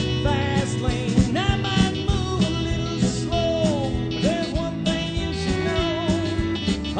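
Live country band playing an instrumental break, a guitar bending notes over bass and a steady drum beat.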